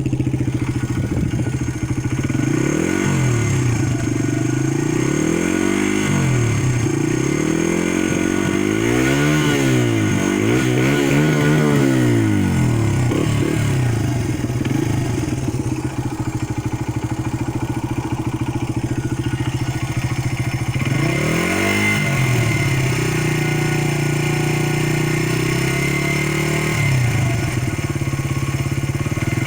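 Honda XR80R's 80cc four-stroke single-cylinder engine idling, with the throttle blipped again and again. The revs rise and fall in short arcs, about four in quick succession in the first half and another just after twenty seconds in.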